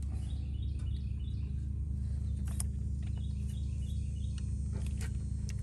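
Small bird chirping in two short runs of quick, high, falling notes over a steady low hum, with a few faint clicks.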